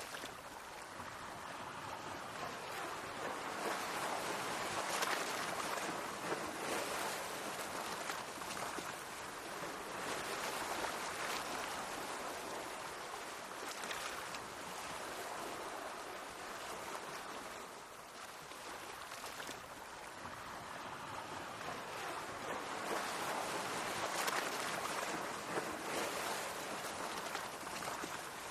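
Mediterranean sea waves washing against the shore in a continuous hiss that swells and eases slowly, surging louder a few times and dropping back briefly about two thirds of the way through.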